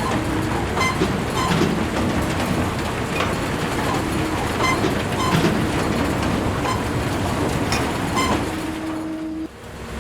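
A small machine running with a steady rushing noise and irregular clicks and rattles; a short steady hum joins near the end, and the noise drops off suddenly just before the end.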